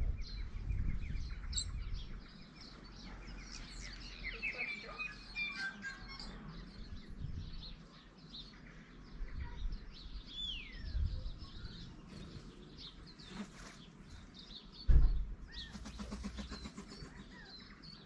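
Small garden birds chirping and twittering at and around a feeder, with a falling whistle about ten seconds in. A single low thump about fifteen seconds in is the loudest sound.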